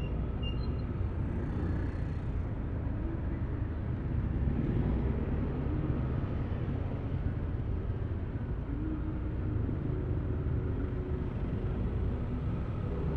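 Yamaha Aerox V3 scooter's single-cylinder engine running steadily under way, with a low rumble of wind and road noise over the microphone.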